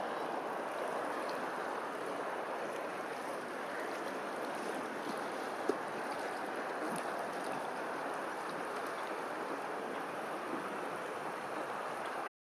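Steady rush of flowing water, with one short sharp knock a little past the middle. The sound cuts off abruptly just before the end.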